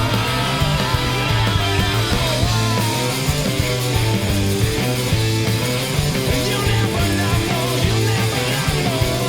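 Loud rock music in a punk style, with a steady low bass line running under it.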